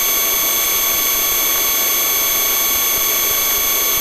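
Police helicopter's turbine engine and rotor noise heard in the cabin through the crew's intercom microphone: a steady rush with several high, constant whining tones.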